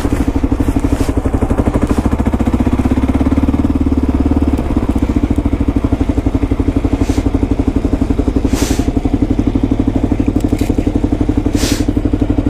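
Motorcycle engine running at low speed with a steady, rapid exhaust beat, with a few short hisses over it.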